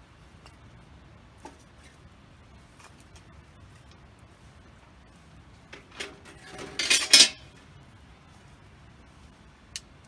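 Metal camp gear clinking and clattering in a short loud cluster about six to seven seconds in. A few faint scattered ticks of a wood fire crackling come before and after it.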